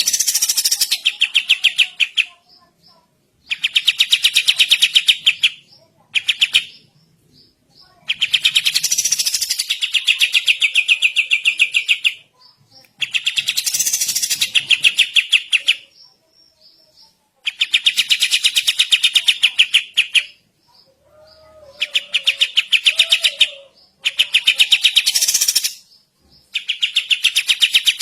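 Kapas tembak songbird singing its fast rattling "dorrr" song: bursts of rapidly repeated notes, each two to four seconds long, broken by short pauses, about nine bursts in all.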